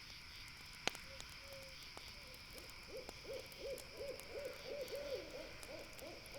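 An owl hooting in a quick run of about a dozen short, even notes, starting about three seconds in, with a softer few notes earlier. A sharp pop about a second in and faint ticks come from a crackling campfire, over a steady high insect chorus.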